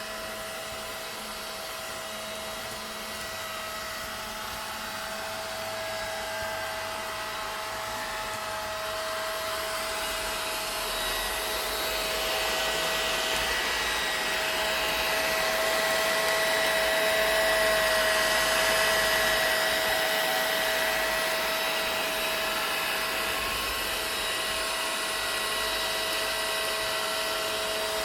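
Vacuum cleaner running continuously: a steady motor whine over a broad rushing hiss. It grows gradually louder towards the middle, then eases back a little.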